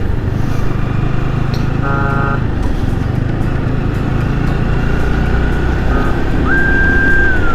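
Yamaha R15 V3's single-cylinder engine running steadily at highway speed with wind noise on the helmet-mounted microphone. A vehicle horn sounds briefly about two seconds in, and near the end a siren rises, holds and falls.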